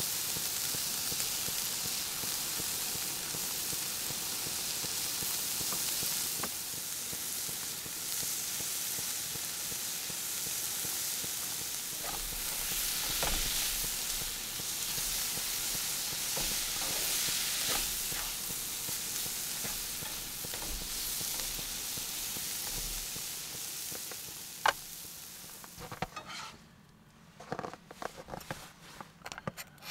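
Food sizzling in a hot frying pan, with occasional sharp scrapes and ticks of a utensil stirring it. A few seconds before the end the sizzling dies away, leaving a few short scrapes and taps.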